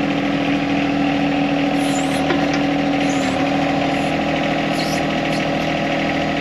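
A John Deere compact tractor's diesel engine idling steadily at low idle, its pitch dipping slightly about halfway through. A few faint high chirps sound over it.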